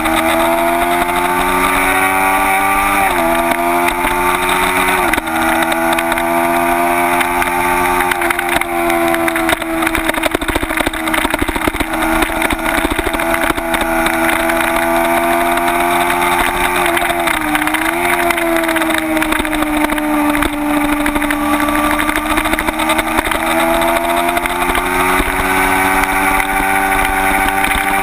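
Kawasaki Ninja 250's parallel-twin engine running hard at high revs, with wind rush. The engine pitch climbs and falls with the throttle, steps sharply twice a few seconds in, and dips about two-thirds of the way through.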